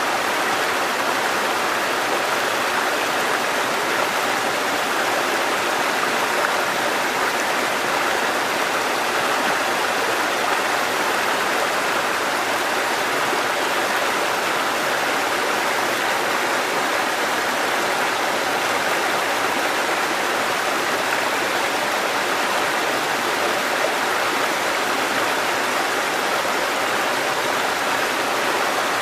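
Water cascading down a mountain stream in a steady, unbroken rush.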